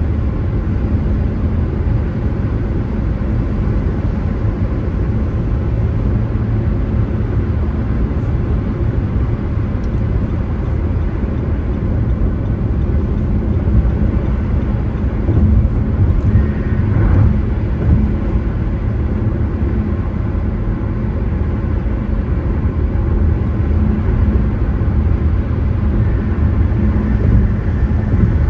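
Car driving: steady low rumble of road and engine noise, with a brief higher-pitched sound about two-thirds of the way through.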